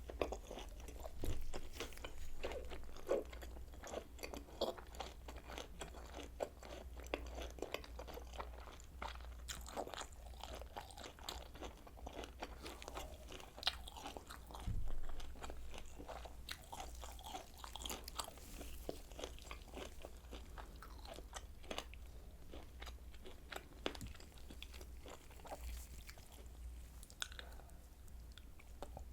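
Close-up chewing and biting of kielbasa sausage: irregular crunchy clicks and mouth sounds with no steady rhythm, over a low steady hum.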